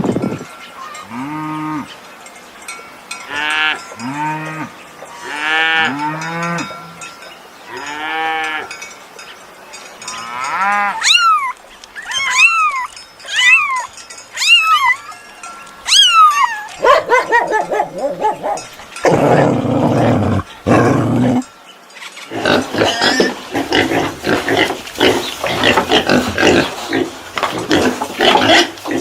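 A run of different animal calls. First come repeated cattle moos, one arched call about every two seconds. Then a string of short high calls that fall in pitch. Then rough, noisy calls fill the last third.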